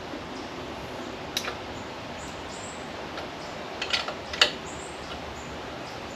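A few sharp metal clinks of a spanner and socket on the inlet manifold nuts, one about a second and a half in and a quick cluster around four seconds in, over a steady low hiss. The nuts are being tightened because they were found loose, the cause of a vacuum leak. Faint bird chirps sound in the background.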